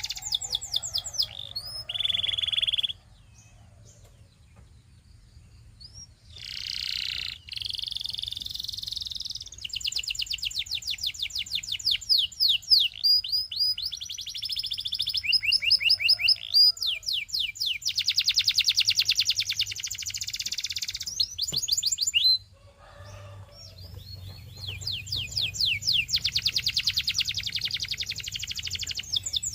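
Canary singing: long rolling trills of fast repeated high notes and sweeping phrases, with a pause of a few seconds about three seconds in and a brief one a little past twenty-two seconds.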